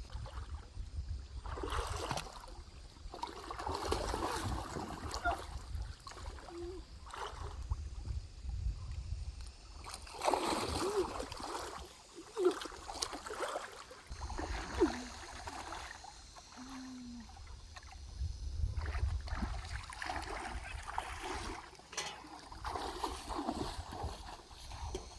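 Water splashing and sloshing in a shallow stream in irregular bursts, as someone works in the water.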